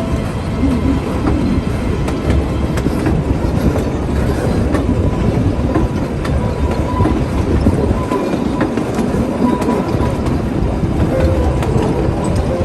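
Puffing Billy narrow-gauge steam train running along the line: a steady rumble of carriages on the rails with scattered clicks. A faint high wheel squeal comes and goes in the middle.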